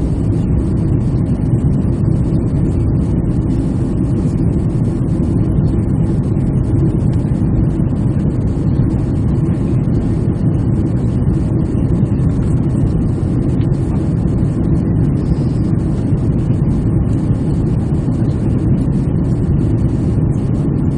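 Steady cabin noise of an airliner in flight: jet engines and rushing air, heavy and low, without a break.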